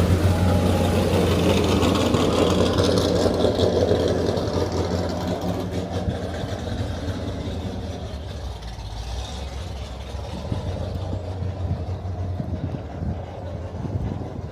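Corvette engine running at a steady idle, loud at first and fading away over the first several seconds to a low rumble.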